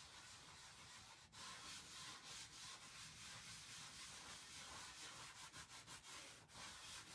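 Faint rubbing and wiping across a wet, paste-covered craft surface, starting about a second in, as the chalk paste is worked and spread over it.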